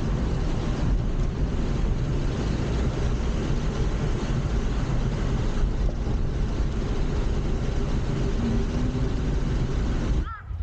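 Steady engine and road rumble of a car heard from inside the cabin while driving. It cuts off abruptly near the end.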